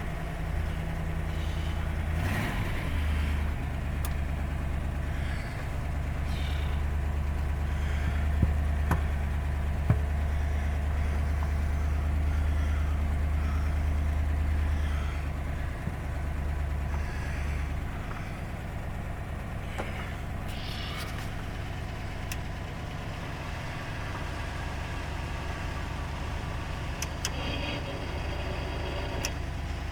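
1957 Monarch's 312 cubic-inch V8 running at idle just after a cold start from −30 cold, its steady low hum easing to a quieter idle about halfway through.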